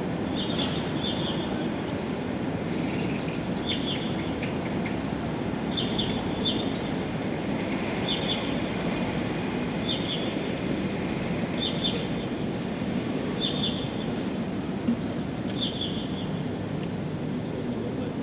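A songbird repeating a short, high call phrase about every two seconds, over a steady low rushing background noise.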